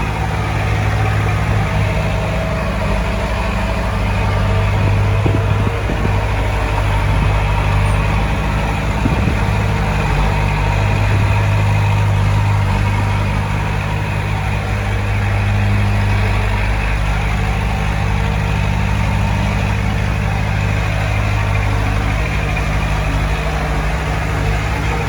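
Heavy diesel engine of earth-moving equipment running steadily, its low note swelling and easing slightly as it works.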